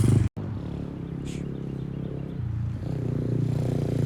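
Dirt bike engine running steadily after a brief dropout in the sound near the start, growing louder toward the end.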